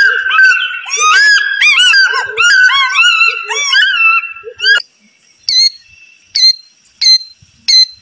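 African fish eagle calling: a rapid run of short, arching whistled notes, some overlapping. It cuts off about five seconds in and is followed by a killdeer's sharp, high calls, repeated about four times, one every three-quarters of a second.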